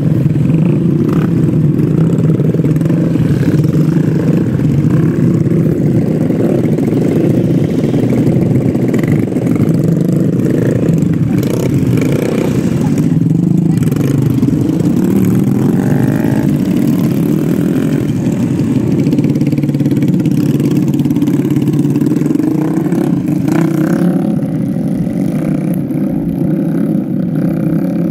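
Motorcycle engine running steadily, with the higher sounds easing slightly near the end.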